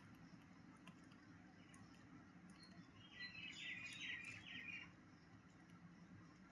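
A bird chirping: a quick run of short, high chirps that starts about halfway through and lasts under two seconds, over faint room hum.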